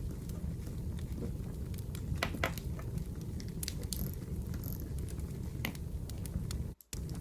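Wood fire burning in a fireplace: a steady low rumble of flames with scattered sharp crackles and pops from the burning logs. The sound drops out for a fraction of a second near the end.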